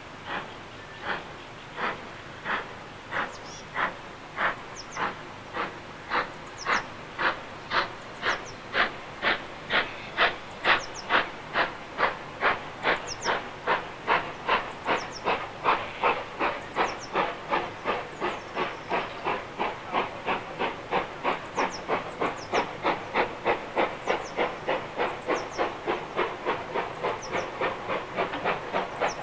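Steam locomotive working a train, its chuffing exhaust beats quickening from about one and a half to about three a second as it gathers speed.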